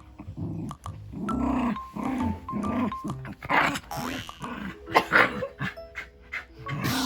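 Shiba Inu making short play growls and grunting snorts, about two a second at first, then a few sharp huffs, over background music.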